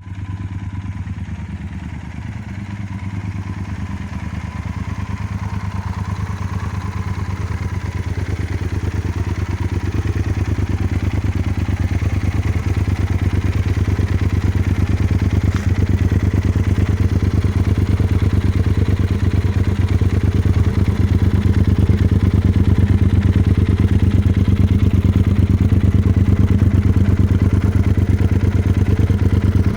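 Yamaha Super Ténéré parallel-twin engine idling steadily through a modified Akrapovic exhaust, growing gradually louder.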